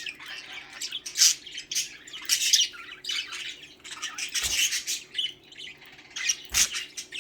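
A flock of pet budgerigars chattering and squawking in a continuous run of short, high-pitched calls. Two brief low thumps come about four and a half and six and a half seconds in.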